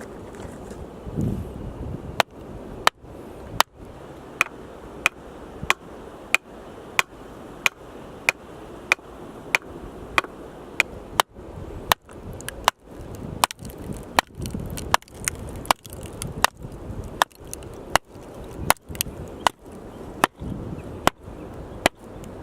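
Axe chopping firewood: a steady run of sharp strikes on wood, about three every two seconds, starting about two seconds in.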